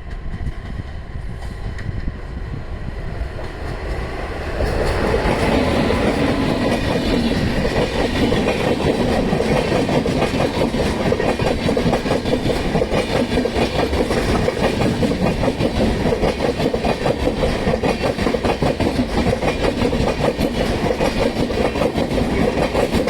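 Train passing close by, its wheels clattering steadily over the rail joints. The noise grows much louder about four seconds in and stays loud.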